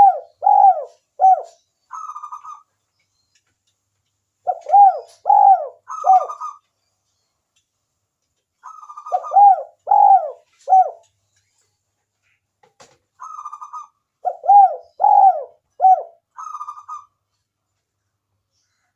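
Spotted dove (tekukur) cooing: phrases of a few rising-and-falling coos with a rolling trill, repeated about every four and a half seconds. It is a lure call meant to set wild spotted doves calling.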